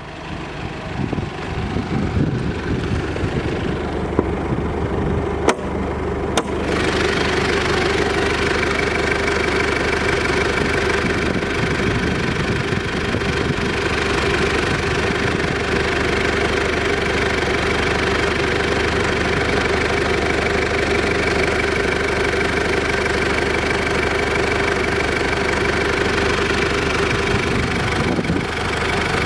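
Mitsubishi Shogun's 3.2 DI-D four-cylinder turbo diesel idling steadily with a diesel clatter. A click comes about five and a half seconds in. About a second later the engine sound becomes abruptly louder and brighter, then stays steady.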